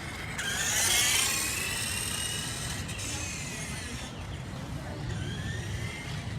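Small 380 electric motor of a 1:5 RC Ducati motorcycle whining as it speeds up and slows, rising sharply about a second in and again near five seconds, over a low rumble.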